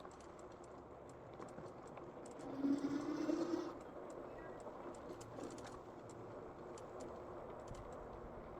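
E-bike riding along a trail: steady tyre and wind noise with scattered light clicks and rattles. A brief, slightly rising hum comes up about two and a half seconds in and fades a second later.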